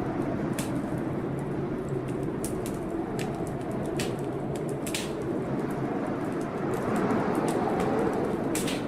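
Wood fire in a fireplace crackling, with irregular sharp pops every second or so, over a steady low storm noise.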